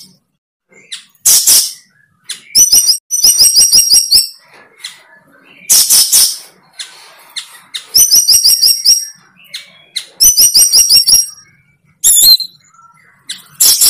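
A bird chirping loudly in short phrases of quick repeated notes, with brief pauses between the phrases.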